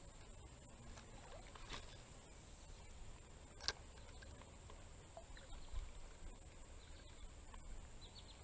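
Quiet outdoor ambience: a steady faint high-pitched tone, a few faint short chirps near the end, and one sharp click about three and a half seconds in.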